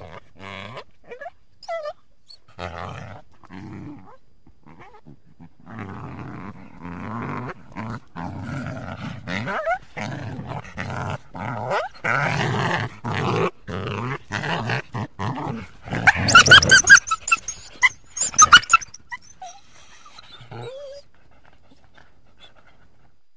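Coyote growling and barking in a run of short calls, building to a burst of loud, high-pitched yips about two-thirds through, then a few faint calls.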